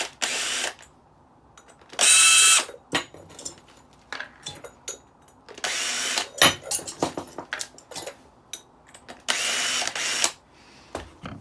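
Cordless drill-driver running in four short bursts with a steady whine, backing out the screws that hold the top of a heavy-duty decking light, with small clicks and taps of metal between the bursts.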